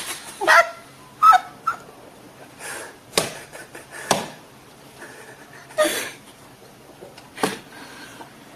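Domestic cats: a few short chirping calls early on, then sharp taps and thumps as one cat swats at the other, with a short breathy burst partway through.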